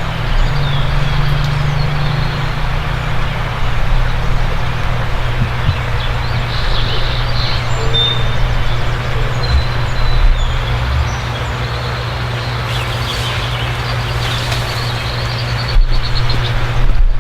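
A vehicle engine running steadily, with birds chirping.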